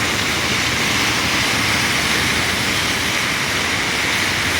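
Steady rain falling on a busy city road, with traffic running on the wet surface: an even hiss over a low rumble.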